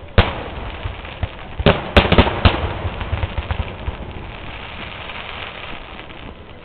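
Fireworks going off: one sharp bang just after the start, then a quick cluster of four or five bangs about two seconds in, over a continuous crackle and rumble from the rest of the display.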